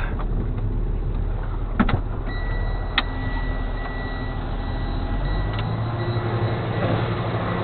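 Flatbed tow truck's engine running steadily, with two sharp clicks and a thin steady high tone in the middle; the deepest part of the rumble drops away about five and a half seconds in.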